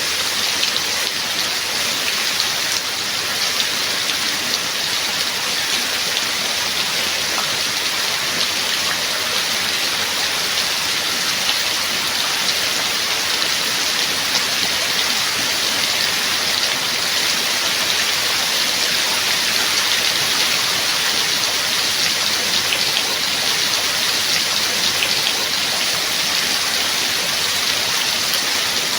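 Steady rain falling: an even, dense hiss with many small drop taps scattered through it.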